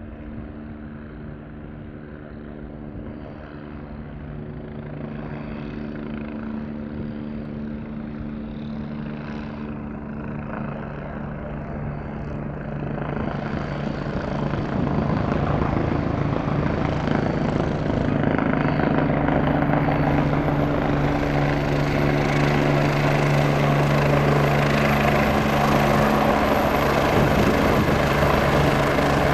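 Agusta A109E Power twin-turbine helicopter approaching, its rotor beat and engine noise growing louder over the first fifteen seconds and then holding steady and loud. A thin high turbine whine comes in about eighteen seconds in.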